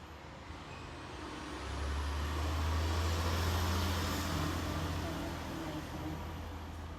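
A motor vehicle, likely a truck, passing by: a low engine rumble swells to its loudest about halfway through and fades away again, with a faint high whine rising and falling along with it.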